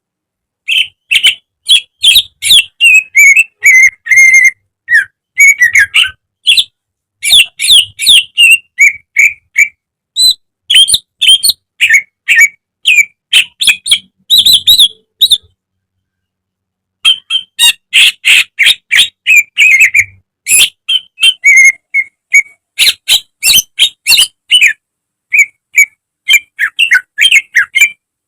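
Green leafbird (cucak ijo) singing a fast string of loud chirps and whistled notes, with a break of about a second midway.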